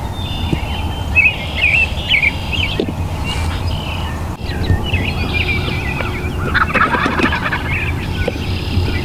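Wild turkey gobbling, a quick burst of calls about two-thirds of the way through. Songbirds chirp throughout over a steady low rumble.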